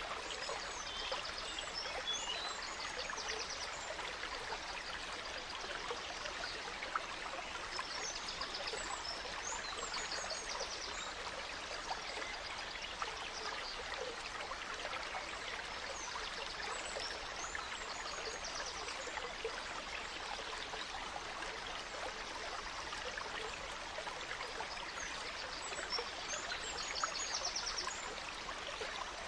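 Gentle stream flowing steadily, with songbirds chirping and trilling in short bursts now and then over it.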